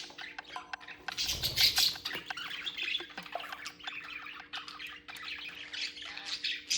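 Budgerigar chattering in quick, short chirps and clicks, with a louder rustling burst about a second and a half in.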